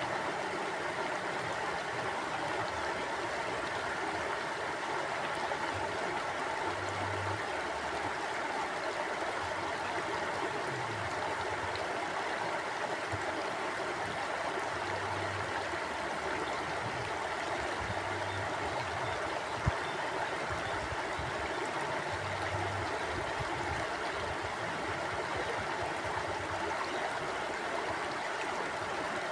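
River water flowing steadily: an even rushing and gurgling. A single sharp click sounds about two-thirds of the way through.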